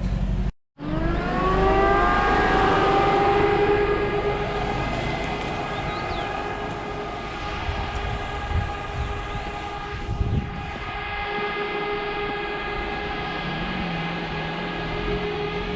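UAZ off-road vehicle's engine revving up over a couple of seconds, then held at high, steady revs.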